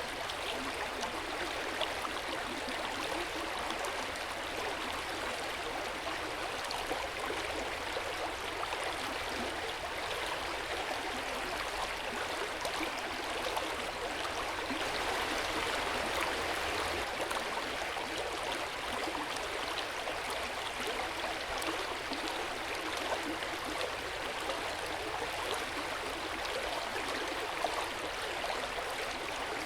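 Hot-spring water running and splashing steadily into an open-air bath: an even, continuous rush of water, a little fuller about halfway through.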